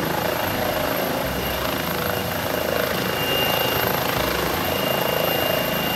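Helicopter sound: a steady rotor-and-engine noise with a thin high whine, cutting in and out sharply like an inserted sound effect.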